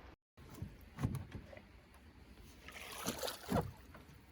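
Canoe being brought ashore: a few hollow knocks and thumps of the hull and paddle against the shore, the loudest about a second in and again near the end, over low water sloshing.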